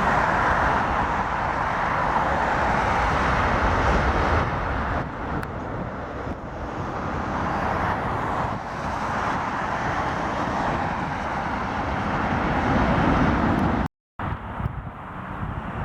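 Jet aircraft engine noise: a loud, steady rush with a low rumble that eases off partway through and swells again. It cuts off abruptly about fourteen seconds in and resumes as a quieter rush.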